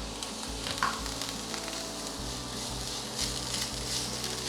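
Chopped onions and ginger-garlic paste sizzling as they fry in coconut oil in a pan, being stirred, with a light tap of the spoon about a second in.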